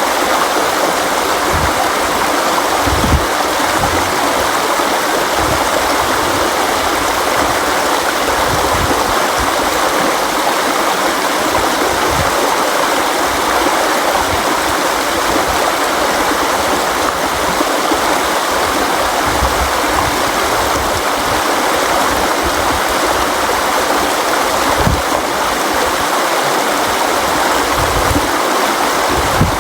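River water flowing and rushing over rocks, a steady dense wash of noise with occasional brief low thuds of water below.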